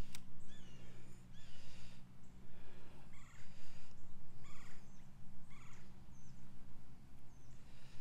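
Birds calling repeatedly, short rising-and-falling notes about once a second, over a low steady hum.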